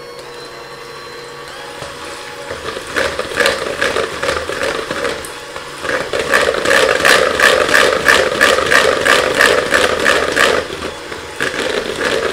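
Electric mixer whipping heavy cream and powdered sugar: a steady motor hum with a fast rattle of the beaters against the bowl, louder from about six seconds in.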